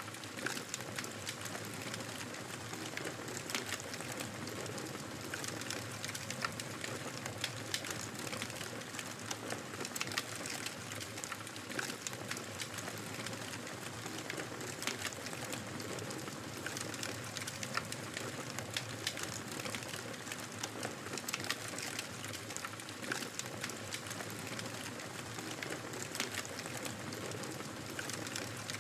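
Fire crackling in a fireplace: a steady soft hiss with frequent sharp pops and snaps at irregular intervals.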